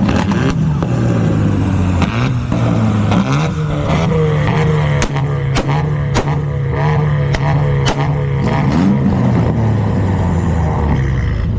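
Car engine running and being revved, with a few sharp pops or cracks in the middle.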